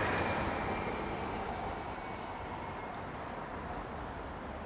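Steady street traffic noise at a city intersection, with a passing vehicle fading away over the first couple of seconds.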